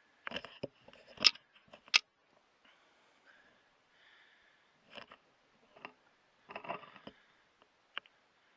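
Scattered small clicks, taps and rustles of gear being handled close to the microphone, with the two sharpest clicks about one and two seconds in and another cluster near the end.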